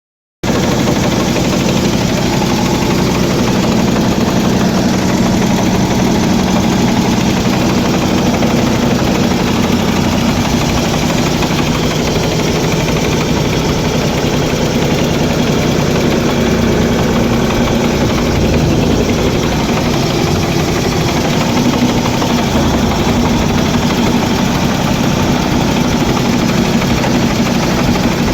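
A 1970 Ford tractor's engine running at a steady speed, even in level throughout.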